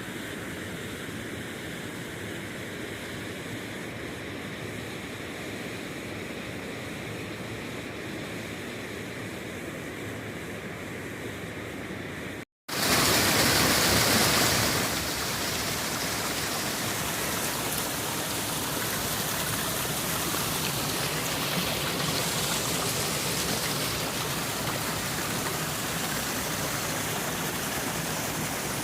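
Rushing creek water, a steady hiss at first quieter and duller, then after a sudden cut about twelve seconds in, louder and brighter.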